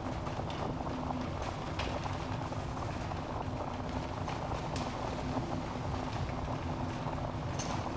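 Wood fire burning in a fireplace: a steady low rumble of the flames with irregular sharp crackles and pops from the logs, the loudest near the end.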